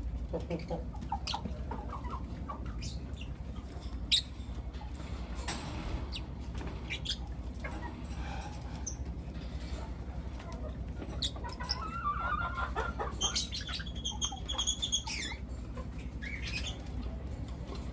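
Lovebirds chirping and calling in short, scattered chirps, with a busier run of quick high calls about twelve to fifteen seconds in. A steady low hum runs underneath.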